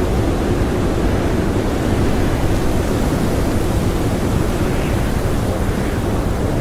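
Strong blizzard wind blowing steadily: a dense, even rush of noise, heaviest in the low end, without whistles or gusts standing out.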